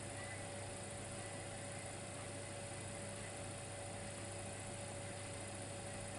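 Dimplex electric fireplace heater giving off a steady electrical hum over a faint hiss, a constant mains-like drone with no change.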